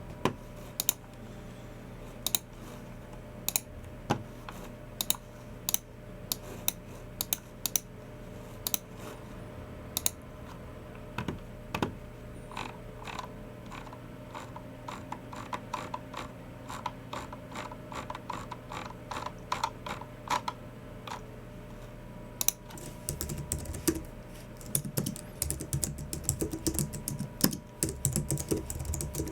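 Typing on a Logitech MX Keys Mini low-profile keyboard, along with Logitech G304 mouse clicks. For the first ten seconds or so there are sparse single sharp clicks. Then the typing becomes steady and grows faster and denser near the end.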